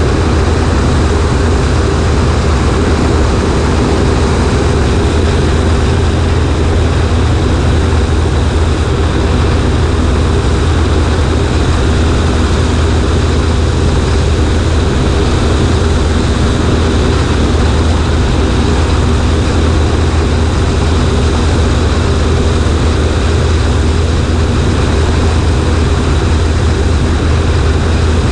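Cessna 140A's piston engine and propeller running steadily in flight, a loud even drone with rushing air, picked up by a camera on the right wing.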